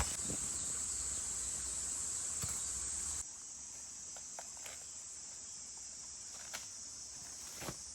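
Insect chorus of crickets trilling steadily and high-pitched, with scattered soft clicks. The overall sound drops abruptly in level about three seconds in.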